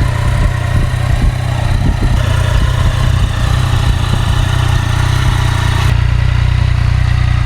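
Big motorcycle engine idling steadily.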